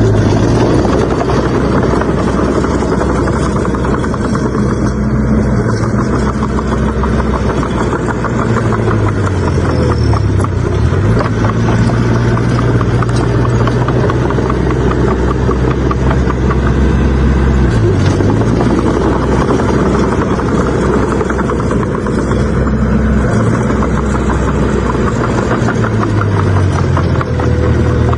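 Bulldozer's heavy diesel engine working steadily. Its pitch drops and picks back up briefly about ten seconds in and again a little before twenty seconds, and it shifts once more near the end.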